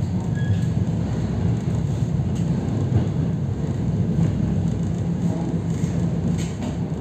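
EP3D electric multiple unit running along the line, heard from inside the passenger car: a steady low rumble of wheels on rails, with a few faint clicks.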